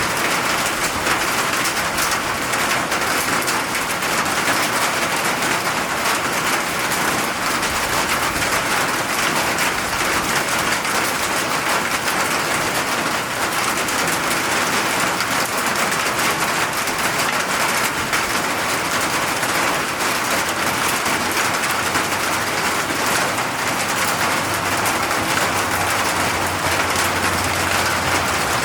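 Steady rain falling, an even hiss made of many fine drop impacts on surfaces. A low steady hum comes in near the end.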